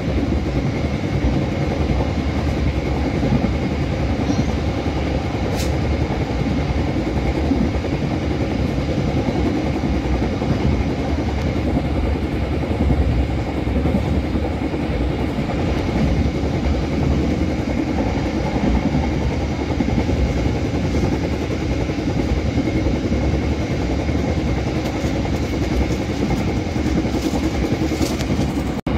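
Passenger train running at speed, heard from inside the coach: a steady rumble of wheels on rail, with a faint steady high whine above it.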